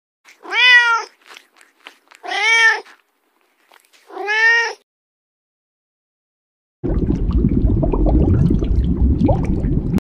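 Kittens meowing: three separate meows, each rising then falling in pitch. After a pause, a steady low rushing noise starts about seven seconds in.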